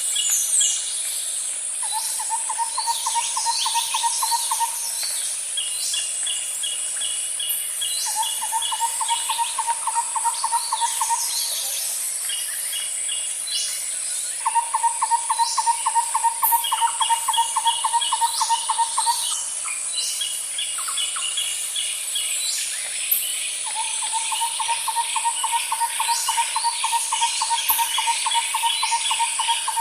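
Nature ambience with insects buzzing steadily and trains of quick, cricket-like chirps. A lower trill of rapid, even pulses comes back every few seconds, each spell lasting two to five seconds; the last runs on to the end.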